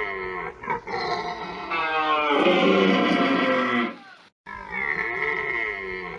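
Deer calling: a run of long, pitched calls. The loudest is about two to four seconds in, and after a short break near the middle another call follows.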